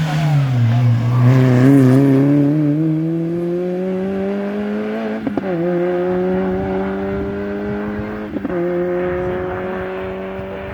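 Rally car engine dropping in pitch as it slows, then accelerating hard away through the gears with two quick upshifts, about five and eight seconds in, slowly fading as it pulls away.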